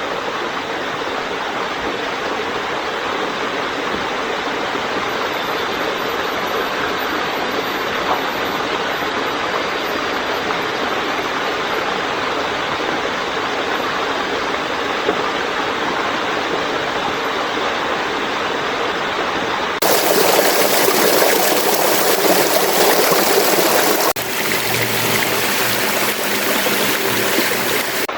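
Stream water rushing steadily. About two-thirds of the way through it turns suddenly louder and brighter, then shifts again abruptly a few seconds later, as if cut to closer shots of the flowing water.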